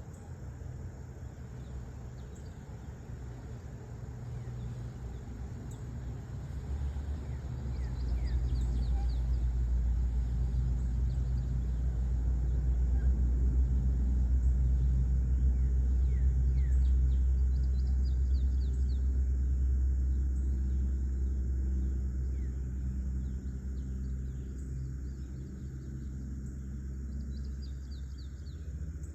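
Low engine rumble of a passing motor swelling over several seconds, holding, then slowly fading out. Behind it, insects drone steadily and birds chirp briefly.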